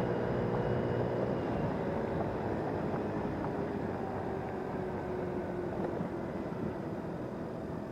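A vehicle driving along: steady road noise and engine hum, the hum's pitch sliding slowly lower as the sound eases off a little toward the end.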